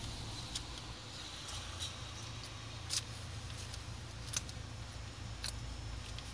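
A stopped car's engine idling, heard from inside the cabin as a low steady hum, with a few sharp clicks scattered through it.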